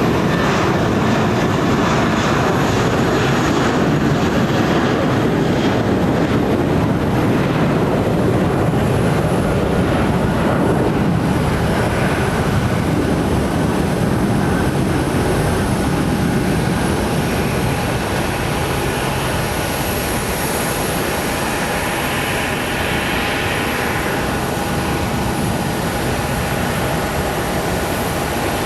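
Jet airliner engines running: a steady low rumble with a faint whine above it, easing off a little in the second half.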